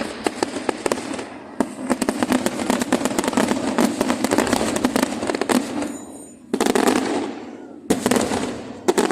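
Fireworks display: a long run of rapid crackling reports for about six seconds, then three heavy separate bangs, each with a rolling echo.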